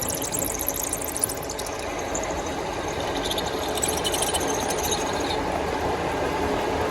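Metalworking machinery running steadily, with a fast, high-pitched ticking over it that stops about five seconds in.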